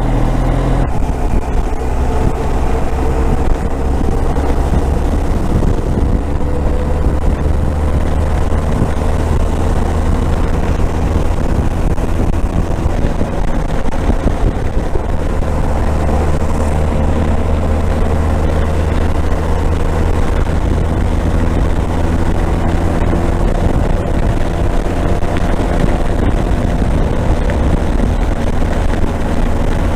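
Motorcycle engine running steadily under way, with wind and road noise, its pitch drifting gently as the speed changes.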